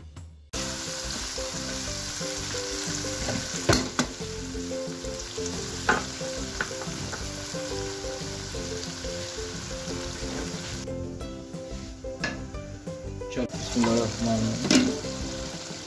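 Chicken and tomato masala sizzling in hot oil in a non-stick kadhai while it is stirred with a wooden spatula, which knocks against the pan a few times.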